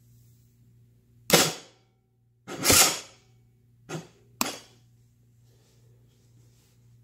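2018 GasGas motorcycle's electric starter cranking in four short bursts, the second the longest, without the engine catching: hard starting on a weak battery.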